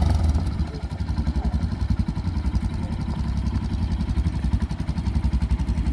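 Quad bike (ATV) engine running, a steady rapid putter of low firing pulses.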